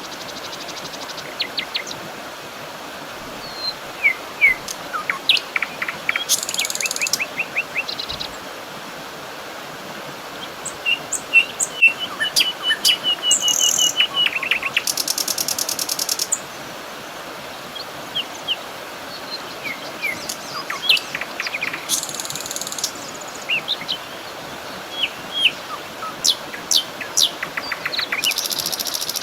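Several songbirds chirping and calling over a steady background hiss. There is a rapid run of repeated notes near the middle and a few short, very high buzzy trills.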